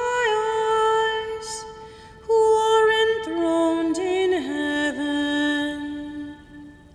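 A solo singer chanting the responsorial psalm at Mass, with long held notes, a short break about two seconds in, then a phrase stepping down in pitch that fades out near the end.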